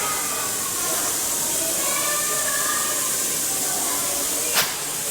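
Steady hiss of escaping steam from a steam locomotive, with faint voices in the background and a single sharp click about four and a half seconds in.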